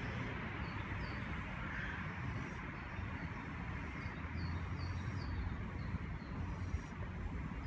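Small birds chirping in short, high, falling notes, several in quick clusters, over a steady low outdoor rumble.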